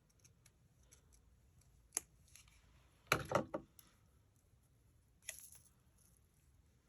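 Scissors cutting paper along a pencil line: a few quiet snips, with a louder run of snips about three seconds in.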